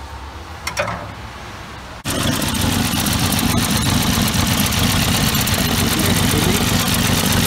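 The Dodge Dart's 225 slant-six engine idling steadily, heard close up in the open engine bay. It comes in abruptly about two seconds in. Before that there is only low background and one brief clink.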